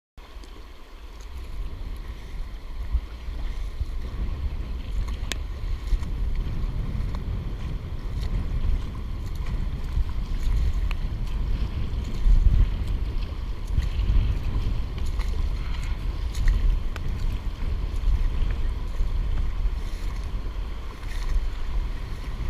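River water rushing around a canoe, with heavy wind rumble on the microphone.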